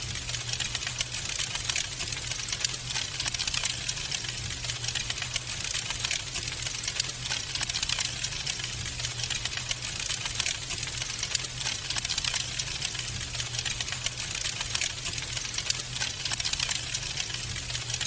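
Wood fire crackling in a fireplace: a dense, continuous run of small pops and snaps, with a steady low hum underneath.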